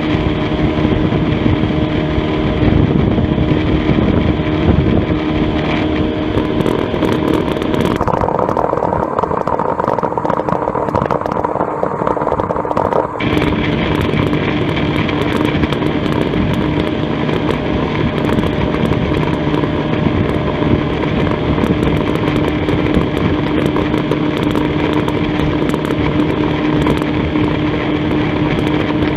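Johnson 120 hp V4 two-stroke outboard motor running steadily under way at a constant speed. Its tone changes for about five seconds near the middle, then returns to the same steady note.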